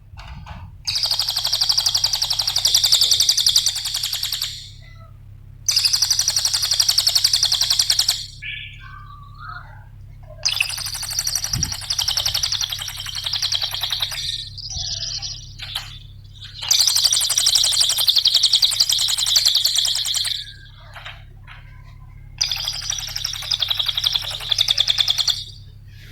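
A cililin songbird singing five long bouts of very rapid, high chattering notes, with short pauses between them. A faint steady low hum sits underneath.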